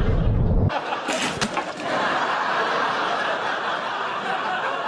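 Sitcom studio audience laughing, with a short low thud at the very start.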